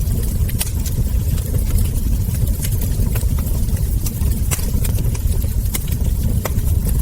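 Wood fire burning in a hearth: irregular sharp crackles and ember pops over a steady low rumble of the flames.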